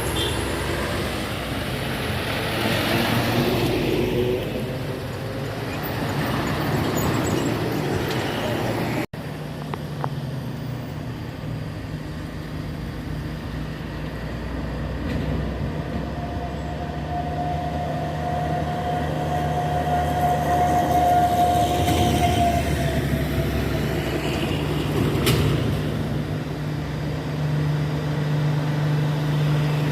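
Heavy truck diesel engine running under load, with a steady low drone and a higher whine held for several seconds past the middle. The sound breaks off abruptly about nine seconds in and resumes straight away.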